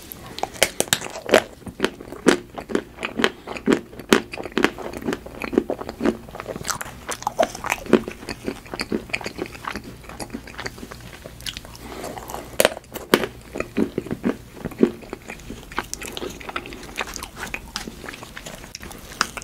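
Close-miked mouth eating sounds of a person biting and chewing a milk-chocolate spoon laden with tiramisu cream: many short, sharp crunching clicks at an irregular pace, with soft wet chewing between them.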